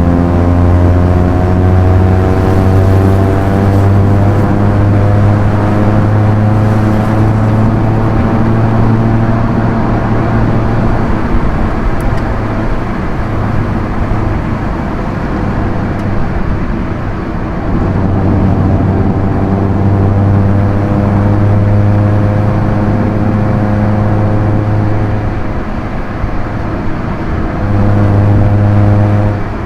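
Proton Inspira's 1.8-litre four-cylinder MIVEC engine running steadily at cruising speed over tyre and road noise. The engine note eases off about twelve seconds in, comes back about six seconds later, and falls away just at the end.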